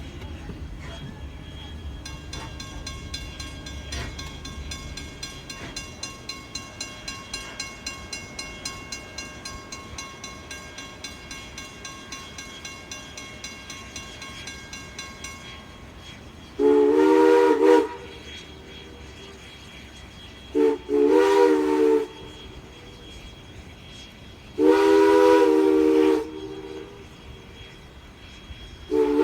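Steam locomotive No. 89, a 2-6-0, with its bell ringing in an even rhythm for about thirteen seconds and fading. Then its chime steam whistle sounds four blasts, each a second or so long, the second broken by a short gap.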